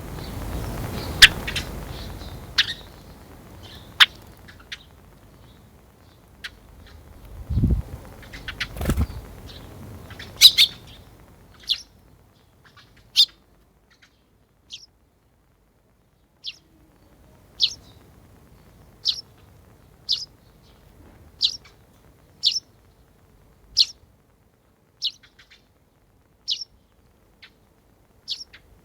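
A sparrow giving single short, high chirps at an even pace, about one every second and a half through the second half. Before that come rustling, a few clicks and two low thumps.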